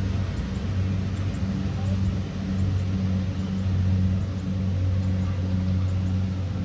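Kubota DC70 Pro combine harvester's diesel engine running under load, a steady low drone that swells and eases slightly.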